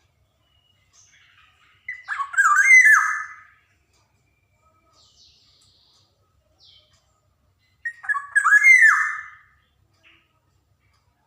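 Black-naped oriole (kepodang) singing: two short phrases of quick swooping, fluty notes, about six seconds apart, with a few faint short calls between them.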